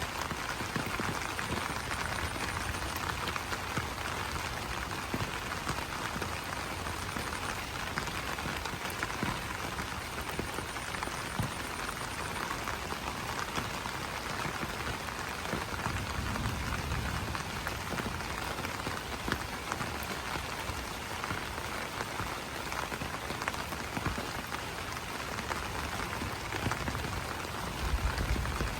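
Steady rain falling on banana leaves: a dense, even hiss of drops with many small ticks as individual drops strike the leaves.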